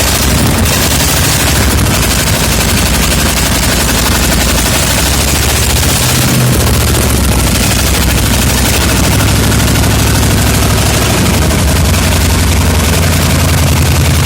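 MAZ truck diesel engine, set on the ground out of the truck, running loudly with a rapid staccato firing rhythm. The engine speed dips briefly about six seconds in, then picks up again.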